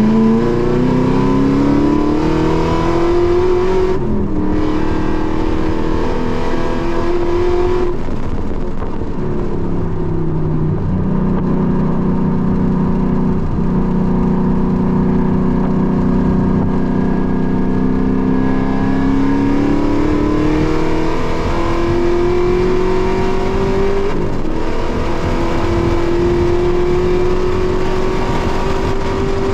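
Race-track car engine heard from inside the cabin under hard acceleration, its pitch climbing with rpm and dropping at upshifts about 4 seconds in and near the end. In the middle the engine runs lower and slower before revving up again.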